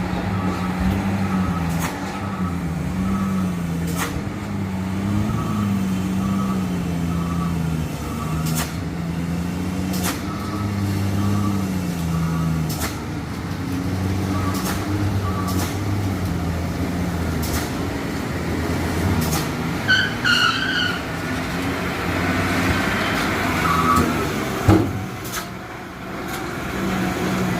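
A truck engine running, its pitch rising and falling for the first half. A brief high squeal comes about two-thirds of the way through, and a single sharp knock near the end.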